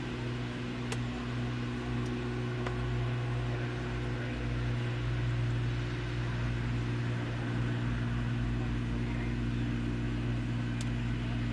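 Steady, unchanging low drone of a boat's engine running, with a couple of faint clicks.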